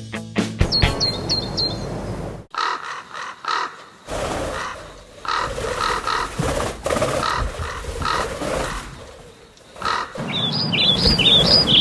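Bird calls: a few short high chirps, then a crow cawing over and over for several seconds, then a quick run of high chirps near the end.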